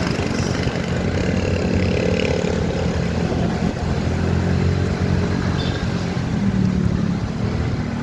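Motorcycle engine running while riding, a steady note whose pitch rises slightly about six and a half seconds in.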